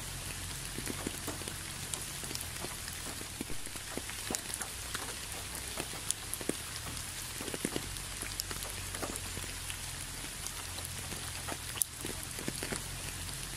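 Steady rain falling, with many separate drops striking close by, a few of them louder than the rest.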